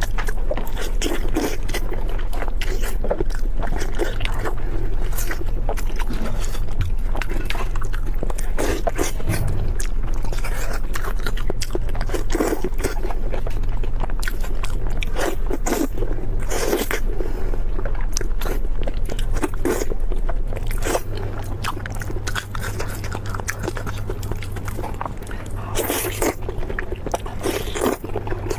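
Close-miked biting and chewing of crispy food: irregular crunches and crackles one after another, over a steady low hum.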